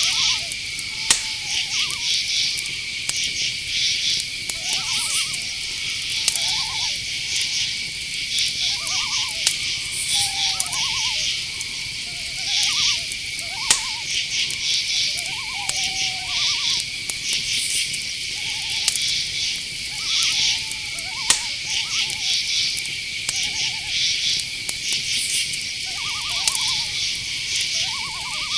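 Night-forest chorus: crickets trill on one steady high note with pulsing insect chirps above it, while short owl calls repeat irregularly throughout. A few sharp clicks stand out, about a second in, near the middle and about two thirds through.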